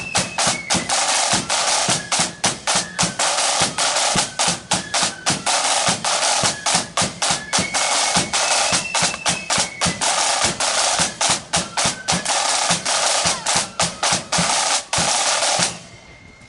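Marching flute band playing: snare drums rattling out rolls and fast strikes over a bass drum, with the flutes' high melody faint beneath the drumming. The band stops abruptly near the end.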